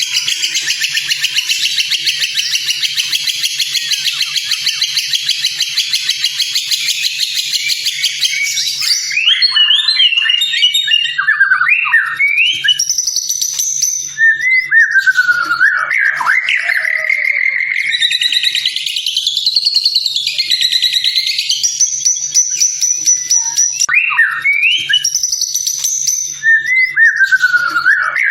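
White-rumped shama singing: a dense, rapid trill for about the first nine seconds, then a run of loud, varied whistled phrases with sliding notes rising and falling.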